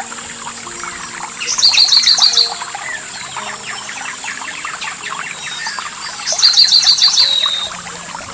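A songbird sings twice, each phrase a quick run of about seven high, even notes, the phrases about five seconds apart. Underneath runs the steady splashing and trickling of a stream.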